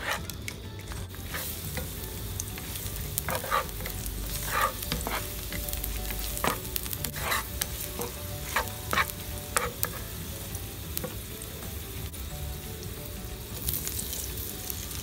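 Sliced garlic and dried red chillies sizzling in oil in a nonstick pan, with a wooden spatula scraping and stirring in short strokes. Near the end, tofu slices are tipped into the pan and the sizzling grows louder.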